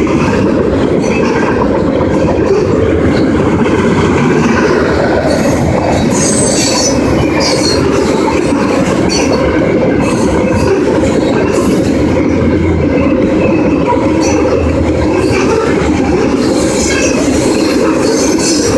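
Freight train cars rolling past close by: a loud, steady rumble of steel wheels on the rails. Brief high squeals from the wheels come through about six seconds in and again near the end.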